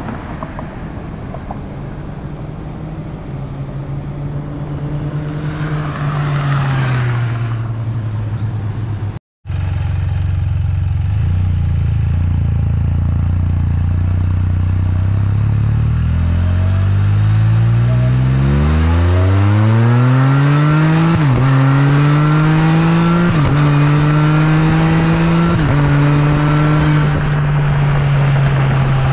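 Can-Am Spyder F3's three-cylinder engine through an RLS slip-on exhaust, running at a steady note at first. After a short break it accelerates hard, its pitch climbing, then snaps through three quick upshifts before settling at a steady cruise.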